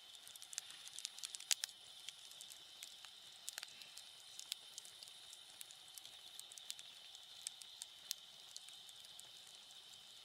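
Campfire crackling: irregular sharp pops and snaps, busiest about one to two seconds in, over a steady high-pitched background hiss.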